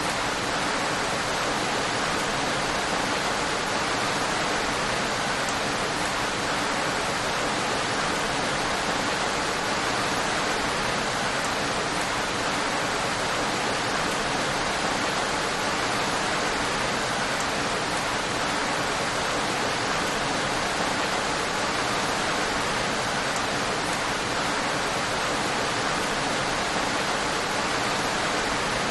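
Steady, unbroken rain noise with no single drops or events standing out.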